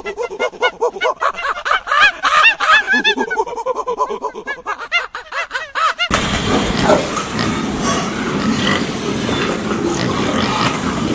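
Animal calls: a quick run of short, repeated high-pitched calls, then a sudden change about six seconds in to a denser, noisier jumble of animal sounds.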